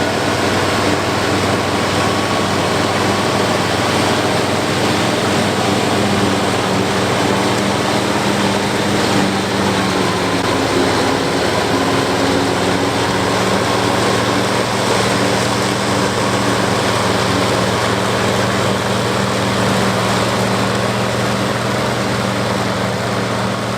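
International 1086 tractor's turbocharged DT414 six-cylinder diesel running steadily under load, with the PTO-driven New Holland FP240 forage harvester chopping corn, a dense, even rushing noise over the engine tone.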